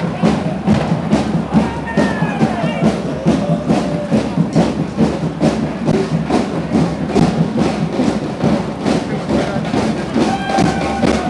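Procession drums beating a steady, quick rhythm, about four beats a second, with crowd voices over it.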